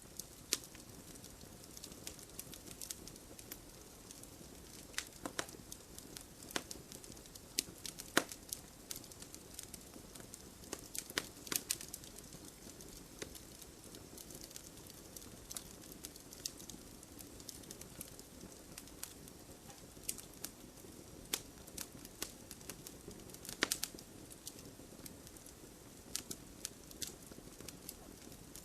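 Wood fire in a fireplace crackling, with sharp irregular pops over a soft steady hiss of flame. The loudest pops come about 8 s, 11 to 12 s and 23 s in.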